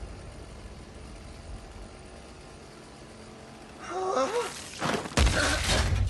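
Anime fight sound effects: a low steady rumble, then a brief voiced sound with gliding pitch about four seconds in. Just before the end comes a sudden loud hit, a burst of noise with a deep thud under it.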